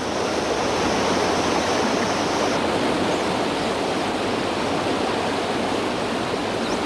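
Steady rushing of a waterfall, cascading water pouring over travertine ledges.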